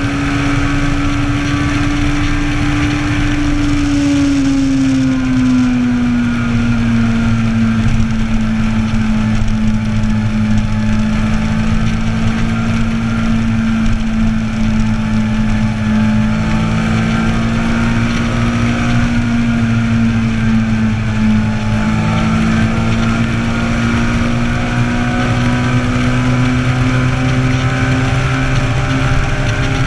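Motorcycle engine running at steady cruising revs, easing off slightly a few seconds in and picking up again in the last third.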